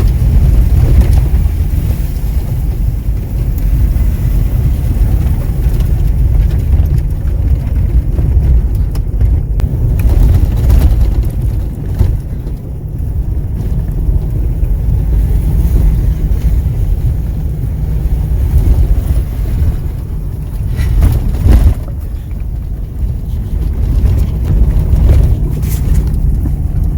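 Vehicle towing a camper trailer, driving over a snowy, muddy forest dirt road: a steady low rumble of engine and tyres, with a few knocks about two-thirds of the way through and again near the end.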